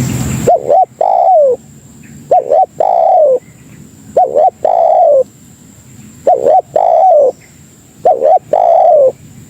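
Spotted dove (tekukur) cooing: five phrases about two seconds apart, each made of two short quick coos and then a longer, falling coo. This is the kind of call used on tape to lure other doves.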